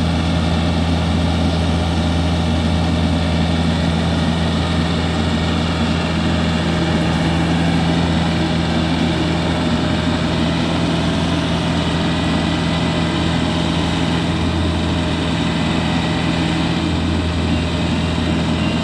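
Heavy farm diesel engine running steadily at constant speed, with a strong low drone.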